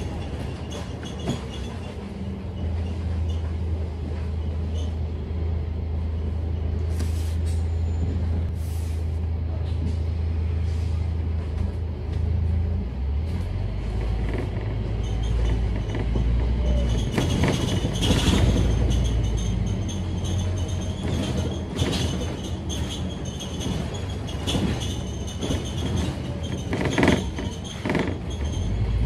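Scania K310UD double-decker bus's five-cylinder diesel engine running under way, a steady low drone that drops in pitch about twelve seconds in, with clicks and rattles over it in the second half.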